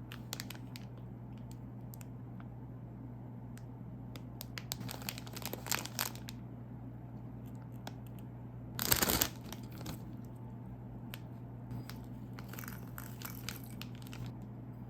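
Plastic snack wrapper crinkling as it is handled, in bursts. There is one louder burst about nine seconds in, like the packet being torn open. A faint low hum runs underneath.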